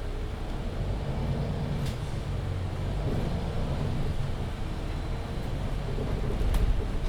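MAN Lion's City 19C EfficientHybrid articulated bus with a Voith automatic gearbox under way, heard from on board: a steady low engine and road rumble. A short click comes about two seconds in and a louder knock near the end.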